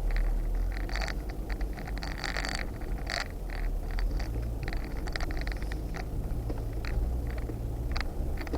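Off-road vehicle driving slowly over a rough trail, its engine running as a steady low hum while many short scrapes and rattles come and go.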